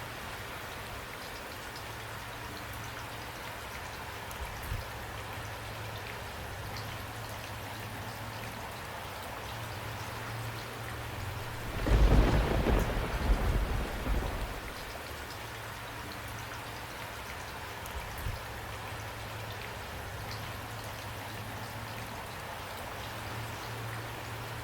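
Steady rain falling, with a rumble of thunder about halfway through that swells and fades over two or three seconds and is the loudest sound.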